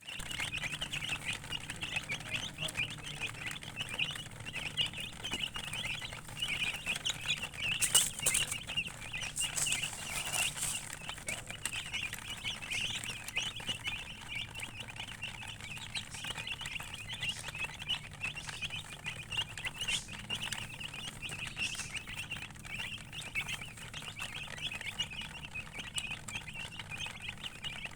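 A brood of baby chicks peeping continuously, many short high chirps overlapping without pause, with a few brief clicks around 8 and 10 seconds in.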